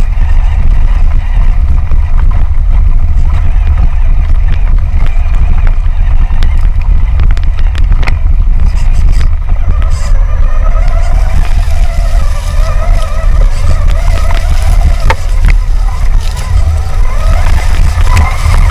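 Traxxas Summit electric RC truck driving over forest ground: motor and gear whine rising and falling with the throttle, over a heavy low rumble, with scattered sharp knocks from the truck hitting the ground.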